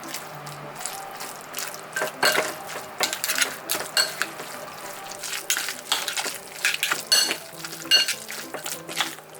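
Dishes and pots clinking and knocking in a sink with water running, a rapid irregular series of clatters, some ringing, over light background music.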